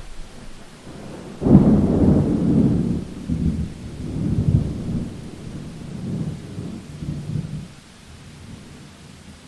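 A thunderclap breaking suddenly about a second and a half in, then rolling in deep waves for about six seconds before dying away, over a steady background of falling rain.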